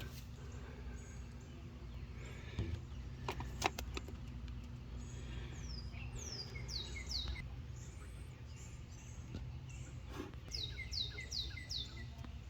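2007 Honda Accord engine idling with a steady low hum. A bird calls in two runs of quick falling chirps, about six and about eleven seconds in, and a few sharp clicks sound in between.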